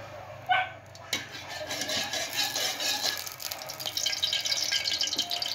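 A short sharp sound about half a second in, then chopped garlic and onions sizzling in hot cooking oil in a wok, the crackling starting about a second in and growing louder.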